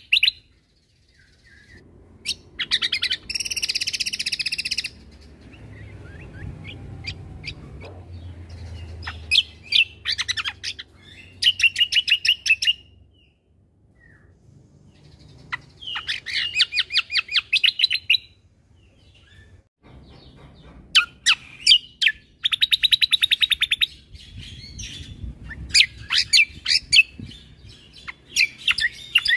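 A cucak kombo (kecial kombo) songbird singing in bursts of rapid, evenly repeated chirps, a fast 'shooting' trill that lasts a second or two at a time and comes about six times with short pauses between.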